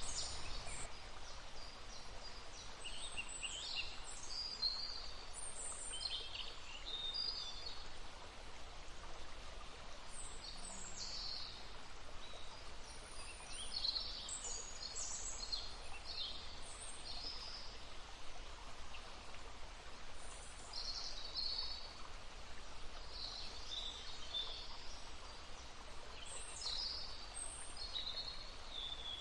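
Several birds singing and chirping in frequent short, high calls, over a faint steady babble of a stream.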